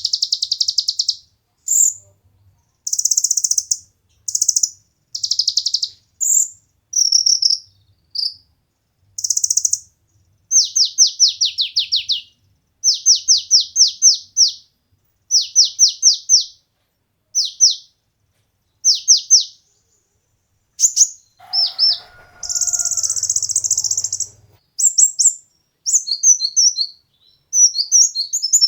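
Kolibri ninja sunbird (konin) song: loud, very high, thin chirps and buzzy phrases, with runs of quick falling notes in the middle and a longer buzzy note about 22 seconds in.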